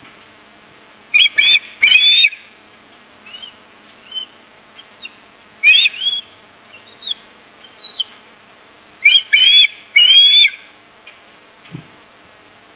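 Shrill bird calls: three loud clusters of quick arching chirps, about a second in, near the middle, and again at about nine to ten seconds, with softer single chirps between them.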